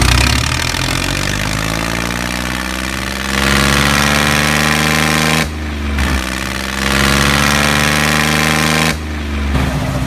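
Engine sound, revving up in pitch and then holding steady. It cuts out abruptly about five and a half seconds in and again near nine seconds, revving back up after each break.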